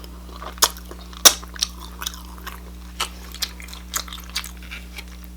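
A person chewing food close to the microphone: irregular soft wet clicks and smacks, with one sharper click a little over a second in.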